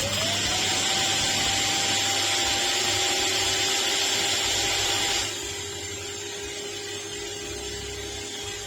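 Shark Detect Clean & Empty cordless stick vacuum's motor spinning up with a rising whine and then running steadily with a loud airflow hiss. About five seconds in the hiss drops off sharply and the motor carries on more quietly, as at a lower suction setting.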